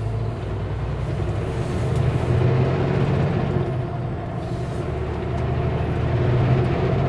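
Kenworth W900L semi truck's diesel engine running under way, a steady low drone that swells and eases slightly.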